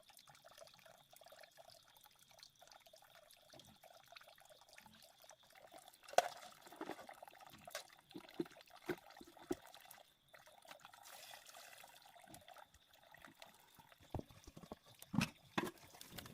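Faint sound of water, with a few sharp knocks: one about six seconds in, a quick series a couple of seconds later, and two more near the end.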